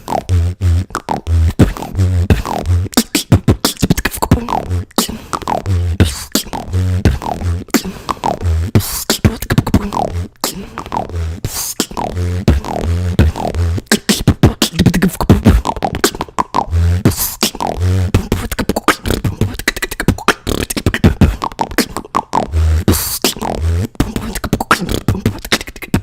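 A beatboxer performing a fast beat with the mouth alone: sharp clicks and snare hits over deep repeated bass kicks, with falling pitched sweeps and lip rolls.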